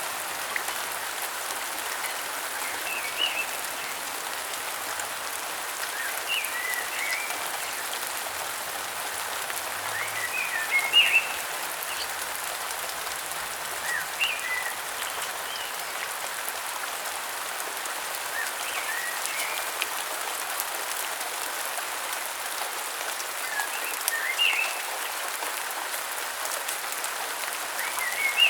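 Steady rainfall hissing, with a bird giving short chirpy calls every three to four seconds over it; one louder patch of rain spatter about eleven seconds in.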